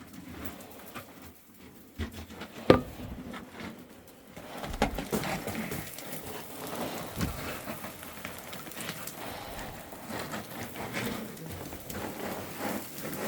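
Scuffing, crunching and pattering of loose rock and gravel underfoot, with a sharp knock about three seconds in.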